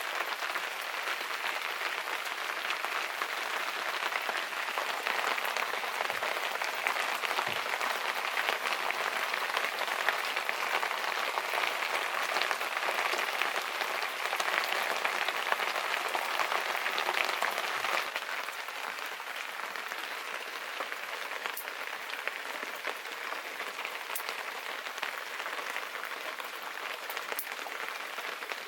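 Steady rain falling, an even hiss with scattered patters of drops; it becomes a little quieter about two-thirds of the way through.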